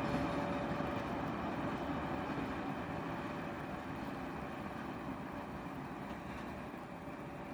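A freight train with 4ES5K Ermak electric locomotives, its steady rumble fading gradually as it moves away, with a faint steady whine fading along with it.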